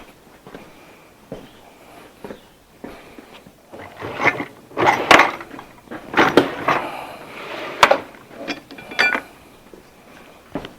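Hand tools and metal parts clanking and knocking against a Ford flathead V8 engine while a tyre lever is being fitted to hold the front crankshaft pulley. The knocks are scattered and come thickest in the middle, with one sharper metal hit that rings briefly near the end.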